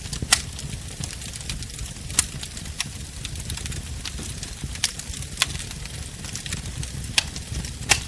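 Wood bonfire burning: a low steady rumble and hiss with sharp, irregular crackles and pops every second or so, the loudest pops near the start and just before the end.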